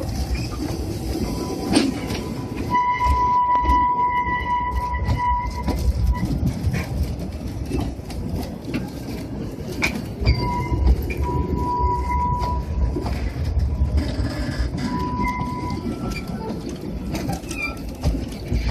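Narrow-gauge train running, a steady rumble and rattle with scattered knocks. Several high, steady squealing tones come and go; the longest starts about two seconds in and lasts a few seconds.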